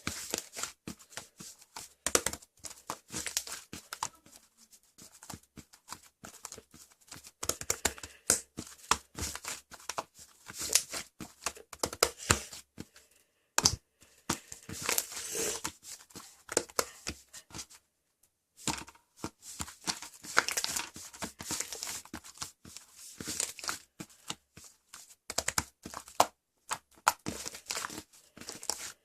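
Close, dense crinkling and tearing of handled material, a rapid irregular crackle with short pauses about halfway and two-thirds of the way through.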